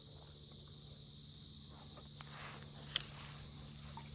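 Faint steady chorus of insects buzzing in high, even tones, with a single short click about three seconds in.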